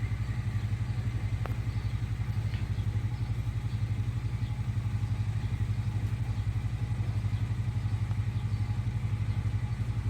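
An engine idling steadily, with a low, fast, even pulse.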